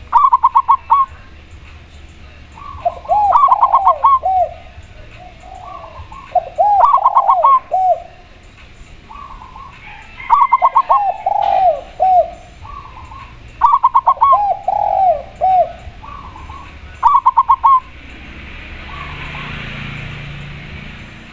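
A spotted dove and a zebra dove cooing back and forth in about six rounds. Each round is a quick run of short, high coos, in most rounds followed by three or four lower, arching coos, with softer coos in between. A soft rushing noise rises near the end.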